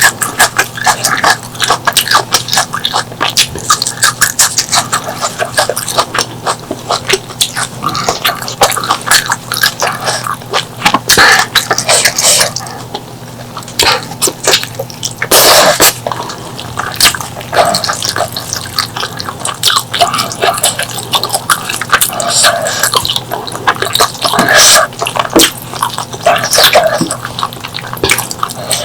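Close-miked eating sounds of pork leg curry and rice: wet chewing and lip smacking in a steady stream of small clicks, with a louder noisy burst about fifteen seconds in.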